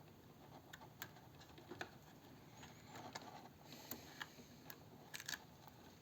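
Near silence with a few faint, light clicks and taps from hands handling a small transformer and peeling adhesive tape as it is stuck in place.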